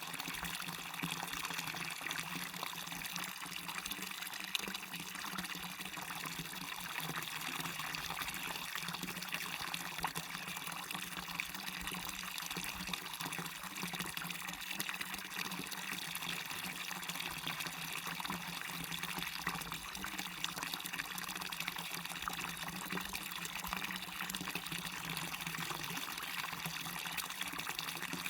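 Waterfall splashing steadily, a continuous rush of falling water.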